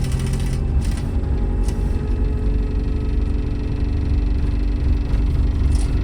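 An engine running at a steady idle with a low rumble, with a few light knocks over it.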